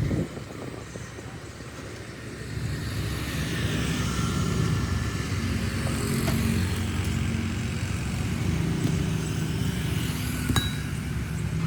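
A motor running steadily with a low rumble that grows louder after about two and a half seconds, and one sharp click near the end.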